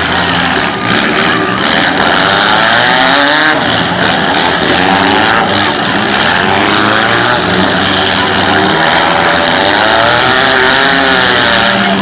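Several compact cars' engines revving hard at once during a demolition derby heat. The engines run loud and continuously, their pitch rising and falling as the drivers accelerate and back off.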